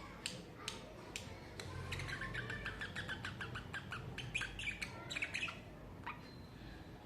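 Budgerigars chattering: a rapid string of short chirps and squawks, busiest in the middle and thinning out near the end.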